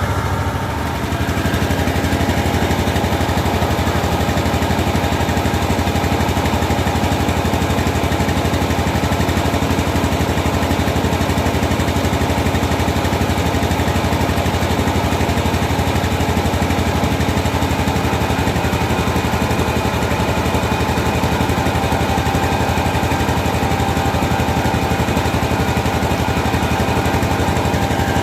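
Diesel engine of a mobile rice mill running steadily at a constant speed, driving the rice-milling machinery, with a fast even beat and steady tones above it. It dips briefly about a second in.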